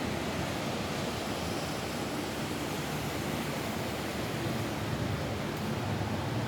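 Steady rain falling on a roof, an even hiss with no single drops or knocks standing out.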